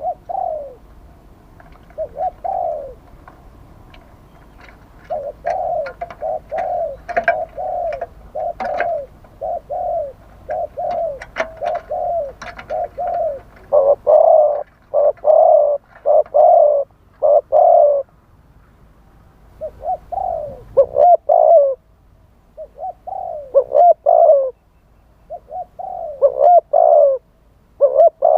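Spotted dove cooing over and over in short phrases of low, wavering coos, growing louder and more continuous about halfway through.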